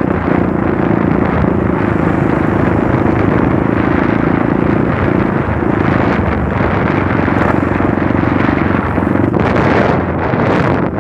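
Trail motorcycle engine running steadily while riding, dipping briefly twice.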